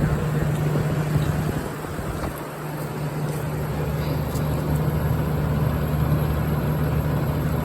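General Electric Thinline window air conditioner running on high cool, its compressor giving a steady low hum under the even rush of the fan. The hum briefly dips about two seconds in, then steadies again.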